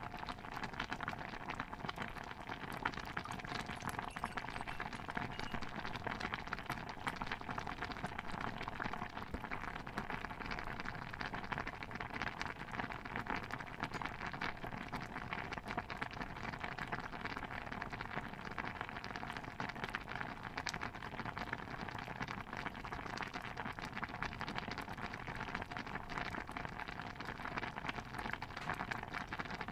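Pot of stew bubbling steadily, a dense even patter of many small pops with no single louder event.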